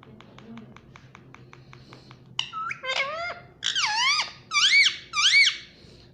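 Indian ringneck parakeet giving a run of short squeaky calls, each rising then falling in pitch, louder toward the end. Before the calls, a quick run of faint clicks.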